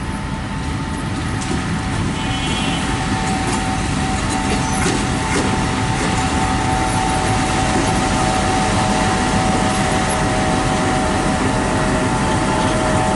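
Railway locomotive running and slowly drawing closer, a steady whine over a low rumble that grows louder, with a few clicks in the first half.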